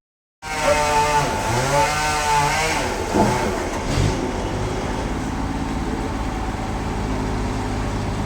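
An engine revving up and down a few times after a brief dropout, then settling to a steady low running note about four seconds in.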